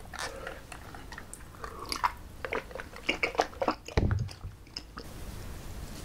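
A person chewing food close to the microphone, with many short wet mouth clicks. A low thump comes about four seconds in, then it goes quieter.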